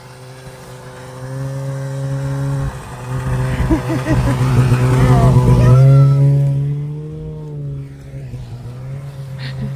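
Snowmobile engine running at a steady pitch, growing louder to a peak about six seconds in, then fading.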